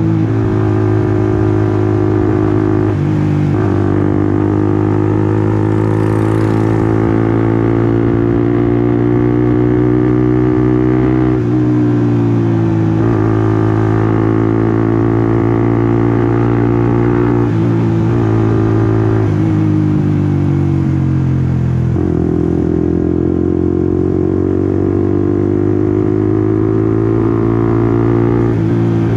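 Honda CBR150R's single-cylinder 150 cc engine under way, pulling up through the revs and dropping back sharply several times as it shifts up or rolls off the throttle.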